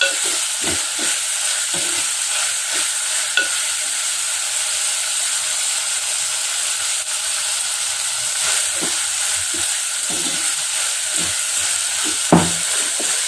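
Shallots, tomato and curry leaves sizzling in hot coconut oil while a spoon stirs them, with irregular scraping strokes against the pot and a sharper knock near the end.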